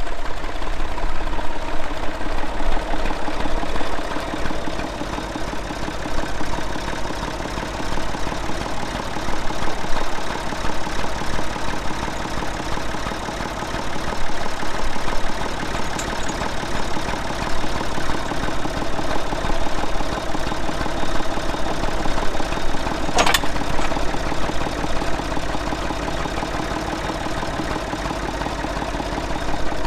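Tractor engine running steadily at a low, even speed, with one sharp click about three-quarters of the way through.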